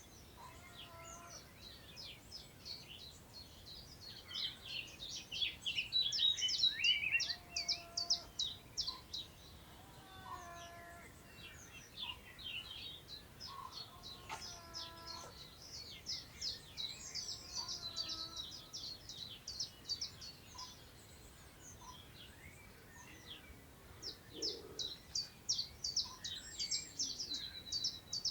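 Several songbirds singing at once: bursts of rapid, high chirping trills come and go, with lower whistled notes in between. Underneath is a faint steady hiss of wind moving through long grass.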